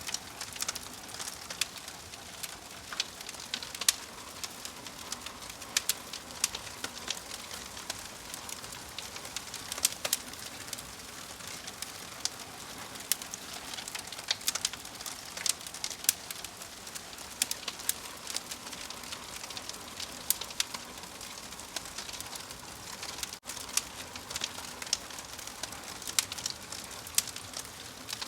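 Wood fire crackling: frequent sharp, irregular pops and snaps over a steady hiss, with a brief dropout a little past the middle.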